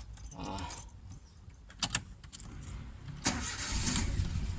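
Chevrolet Spark's engine starting: a few sharp clicks about two seconds in, then the engine catches a little after three seconds and keeps running.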